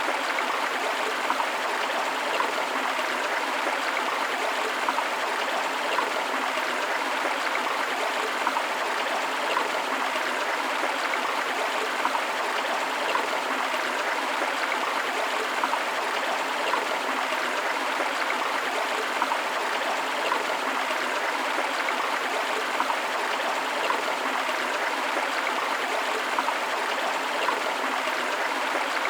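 Forest river flowing over rocks: a steady rushing of water with small splashes and gurgles, unchanging throughout.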